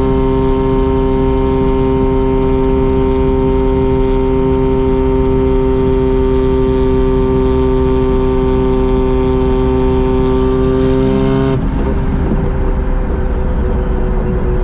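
Mazda RX-7 rotary engine and exhaust running steadily at a constant pitch while cruising. About eleven and a half seconds in, the pitch drops suddenly and the level eases slightly.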